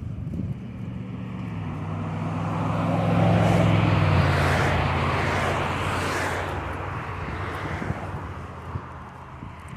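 A motor vehicle passing by: its engine and tyre noise swell to loudest about three to four seconds in, the engine note drops slightly as it goes past, then fades away.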